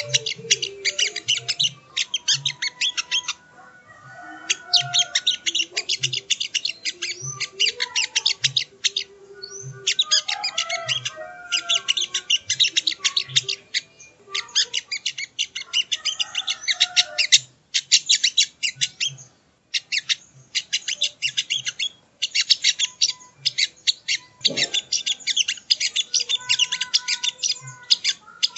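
Sogon (sogo ontong) songbird singing a rapid, high chattering song in bursts of a few seconds, broken by short pauses, as a tutoring recording for training cage birds.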